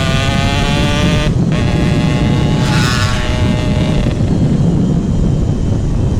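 Yamaha RX-King single-cylinder two-stroke engine through a GRT18 aftermarket exhaust, under way and pulling with rising pitch. It drops out briefly about a second and a half in, climbs again, and eases off with a falling note in the last couple of seconds, over a heavy low wind rumble on the microphone.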